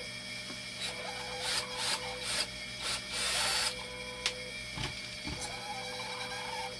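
Hand work on the machine's parts: several short scraping and rubbing noises, the longest about three seconds in, then a sharp click and a couple of dull knocks, over a steady electrical hum with a thin steady tone.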